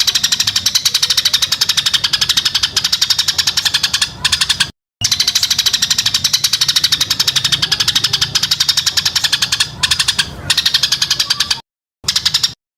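Songbird's rapid, rattling chatter of sharp repeated notes, about ten a second, the fast 'tembakan' (shot) phrase used in masteran recordings for training contest birds, with brief breaks about five seconds in and near the end.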